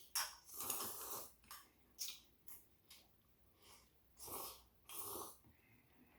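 A person eating ramen with rice cakes close to the microphone: a series of short slurps and chewing noises, the longest burst about a second in.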